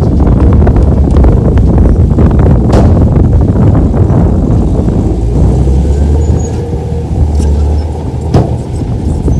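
Komatsu bulldozer's diesel engine running loud under load, with steady clanking and a few sharp knocks as it works the ground.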